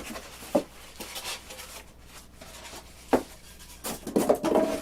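Foam packing pieces and plane parts being handled and rubbed against each other while they are fitted into the box, with a few light knocks.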